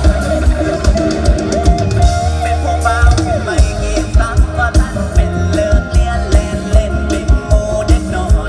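Live mor lam / luk thung band music: a steady kick-drum beat about twice a second under bass and guitar, with a wavering melody line.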